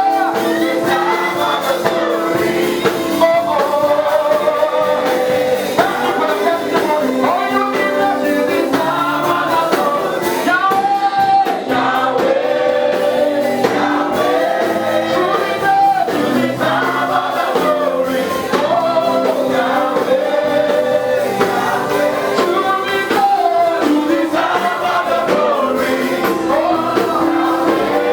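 Gospel praise music: a group of singers sings in harmony over live band accompaniment, continuously.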